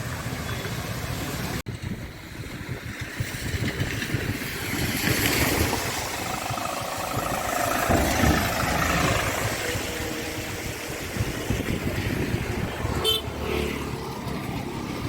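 Road traffic: vehicle and motorcycle engines running and passing, with horns honking.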